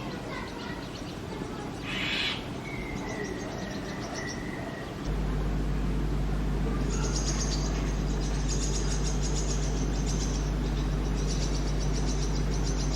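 Brahminy starling nestlings calling in the nest box, with a hissy begging call about two seconds in and a falling call after it. About five seconds in a steady low hum starts, under rapid high repeated chirping.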